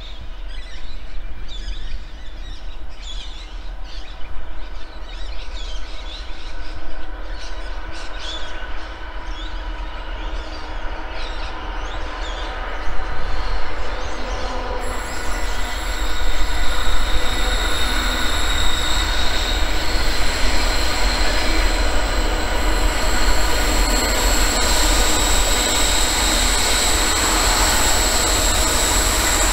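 Diesel-electric freight locomotives (NR and G class) rumbling as they pull an intermodal train out of a tunnel, getting louder as they come into view about halfway through. From about halfway, steady high-pitched wheel squeal comes from the curved track.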